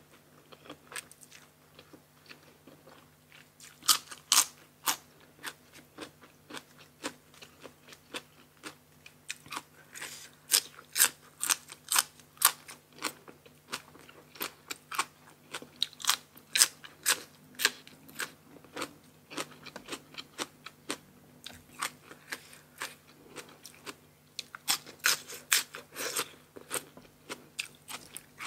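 Close-miked crunching and chewing of crisp food from a plate of blue crab papaya salad with raw vegetables: a long run of sharp, uneven bites and crunches, thickest in the middle and again near the end.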